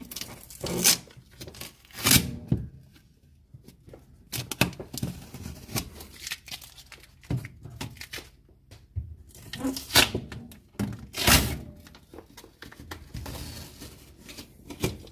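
Packing material being pulled off and torn from a new fridge freezer: irregular tearing and rustling strokes with a few knocks, the loudest near the start and again about two-thirds of the way in.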